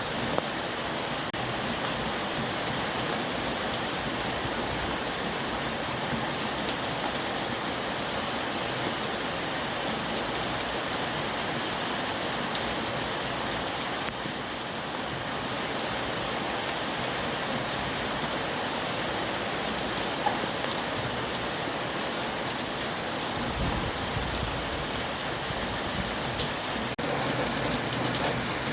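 Heavy rain falling steadily, an even hiss of drops on surfaces, with a brief low rumble about three-quarters of the way through.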